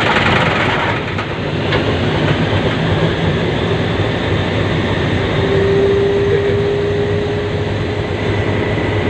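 Locomotive's diesel engine starting up and running, heard from inside the cab: a hissing burst in the first second, then a steady loud rumble, with a steady whine coming in about halfway through.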